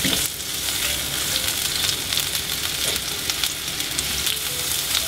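Bammy (cassava flatbread) wedges frying in hot oil in a frying pan: a steady sizzle with fine crackling as more pieces are laid into the oil.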